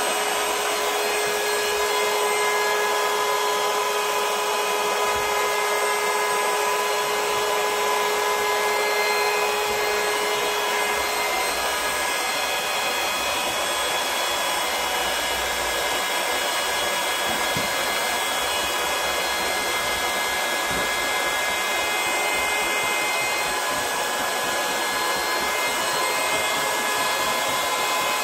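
Battery-powered portable electric air pump running steadily with a continuous fan whir and motor whine, as when inflating an inflatable boat, kayak or SUP board.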